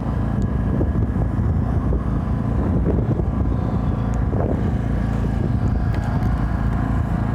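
Engine-driven generator running steadily at a constant speed, powering a portable welding machine.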